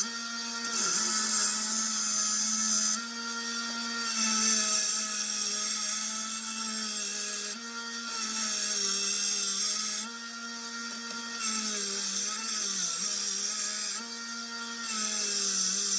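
Small 1x30 belt sander running with a steady motor hum while a steel knife blade is pressed to the belt in repeated passes, each pass adding a high grinding hiss for two to three seconds: bevels being ground and the edge sharpened.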